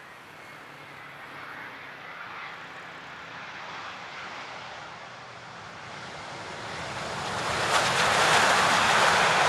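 Airbus A350's Rolls-Royce Trent XWB jet engines growing louder as the airliner approaches, rising sharply about seven seconds in to a loud, steady rush.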